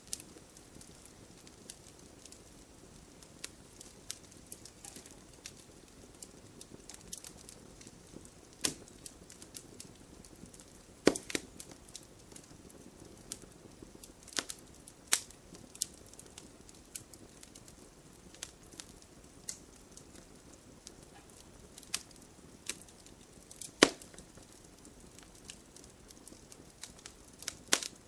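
Wood bonfire crackling: irregular sharp pops and snaps over a steady low hiss of flames, with two louder pops about eleven and twenty-four seconds in.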